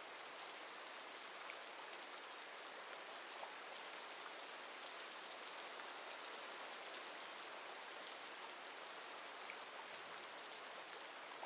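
Steady, soft rainfall: an even hiss of rain with faint scattered drop ticks.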